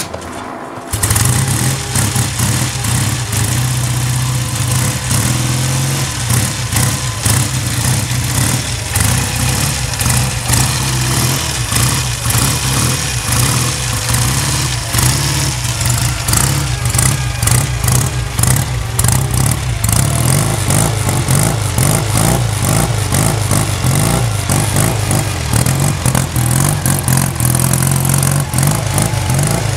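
1966 Triumph 350 Twenty One (3TA) motorcycle's 350 cc parallel-twin engine running with a steady, pulsing exhaust note. It comes in suddenly about a second in.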